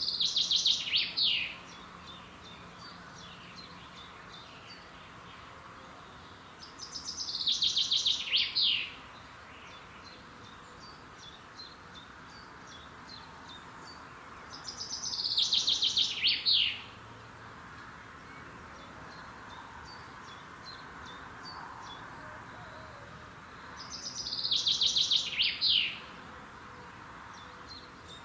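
A songbird singing the same short song four times, about every eight seconds: each is a quick run of high repeated notes ending in a fast downward flourish. Faint calls of other birds lie behind it.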